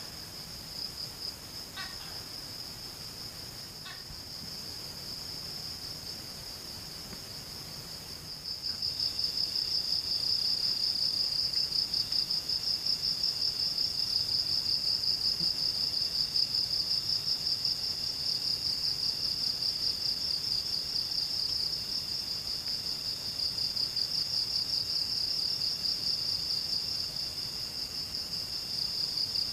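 Forest insects trilling in a steady, high-pitched chorus that grows louder about nine seconds in, with a second, lower trill coming in repeated stretches over it.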